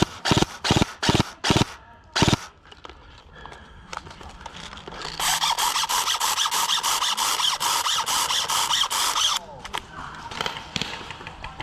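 Airsoft electric gun firing full-auto: a rapid, drill-like buzzing burst of about four seconds that cuts off suddenly. In the first two seconds there are about six short, sharp bursts of noise.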